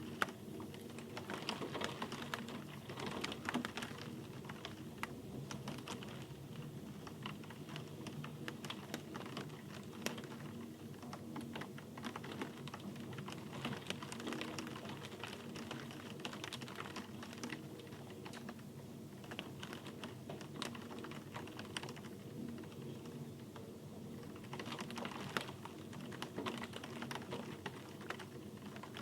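Rain dripping: dense, irregular ticks of drops striking a hard surface over a soft hiss.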